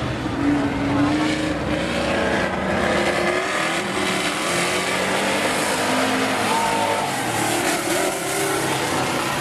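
Engines of several demo cars running on an oval speedway, their engine notes rising and falling as they go around.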